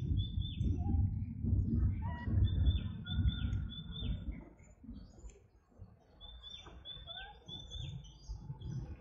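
A bird calling in three runs of four or five short, quick chirps, each dropping in pitch, a few seconds apart. A low rumble runs underneath and is louder than the chirps.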